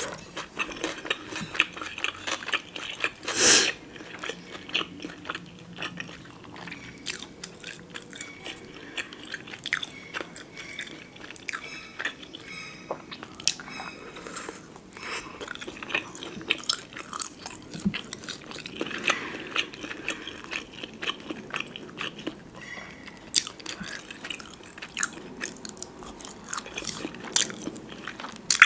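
Close-miked eating: a person biting and chewing soft food, with many small, irregular wet clicks and one louder bite about three and a half seconds in.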